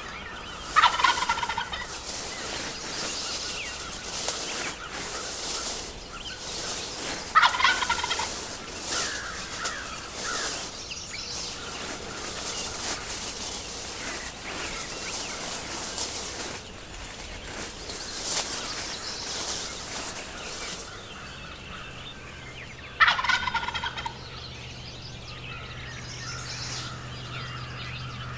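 Wild turkey tom gobbling loudly three times, each gobble a rattling call of about a second, spaced widely apart. A low steady hum comes in near the end.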